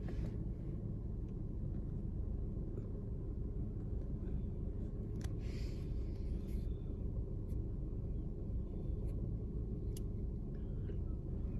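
Steady low rumble, with a few faint clicks and a short hiss about five seconds in.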